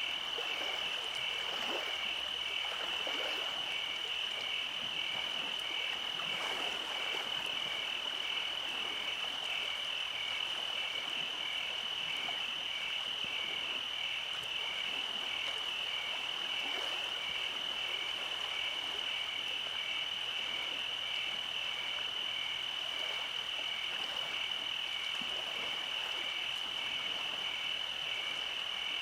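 Night chorus of frogs and insects: a continuous high-pitched trill with a second call pulsing at an even rate just beneath it, steady throughout.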